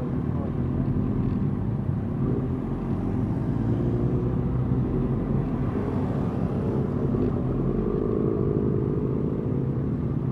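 Motorcycle engine running steadily at low revs, its pitch rising and falling slightly.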